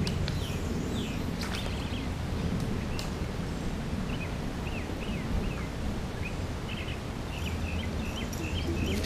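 Small birds chirping in short repeated calls, more often in the last couple of seconds, over a steady low outdoor rumble, with a few light clicks in the first few seconds.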